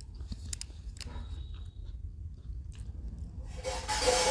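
Close-up chewing and small mouth clicks of someone eating a piece of paratha, with a louder, noisy mouth sound about three and a half seconds in as her fingers go to her lips.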